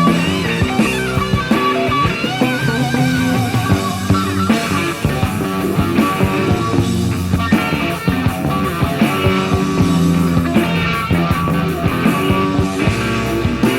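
Hard rock band playing an instrumental passage: an electric guitar lead with bent, wavering notes over bass and drums.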